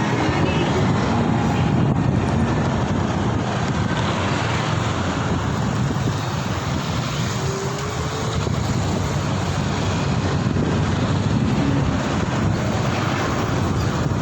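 Steady road noise of riding through traffic, mixed with wind rushing over the microphone.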